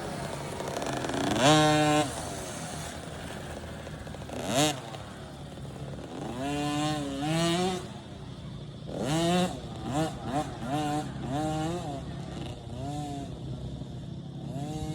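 Small two-stroke 50cc mini dirt bike engines revving. The pitch rises and falls with the throttle, with a loud rise about a second and a half in and a run of quick blips near the middle.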